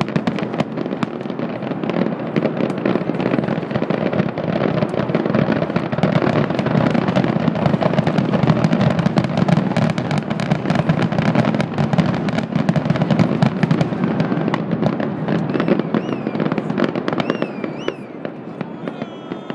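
Fireworks display: a dense, continuous barrage of bangs and crackling that thins out and gets quieter near the end.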